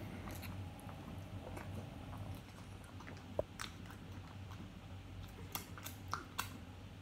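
A person chewing nachos, crunching tortilla chips, with scattered sharp crunches and mouth clicks; the loudest comes about halfway through, and a cluster of four follows near the end.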